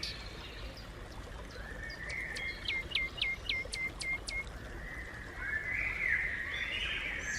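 Sparrows chirping: a quick run of about seven short sharp chirps, then a burst of busier chattering near the end, over steady background noise.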